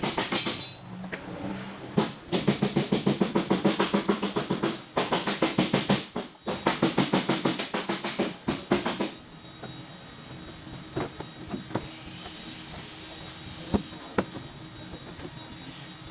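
Paintless dent repair tapping on a car's fender: several runs of rapid light taps, about seven a second, broken by short pauses and stopping about nine seconds in. A few single taps follow.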